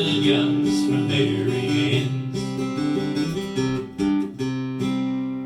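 Music: acoustic guitar strumming the closing chords of a country ballad. The last chord rings out and fades near the end.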